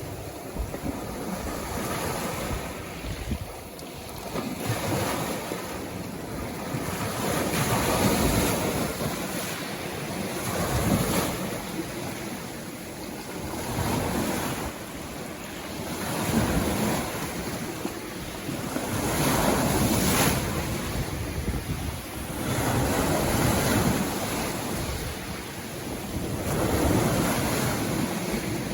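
Sea waves breaking and washing up the shore, the surf swelling and falling back every three to four seconds.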